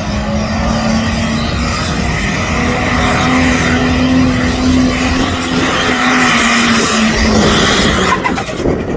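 Heavily modified pulling tractor's engine running flat out while it drags the weight sledge: a loud, steady engine note with a dense roar over it that holds for about eight seconds, then drops away near the end.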